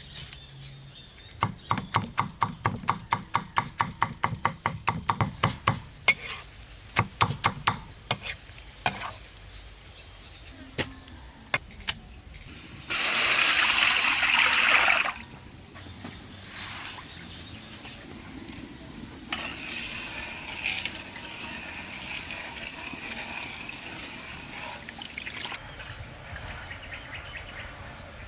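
A quick, even run of sharp knocks, about five a second, for several seconds, then scattered single knocks, then a loud rush of noise for about two seconds; faint birds and insects behind.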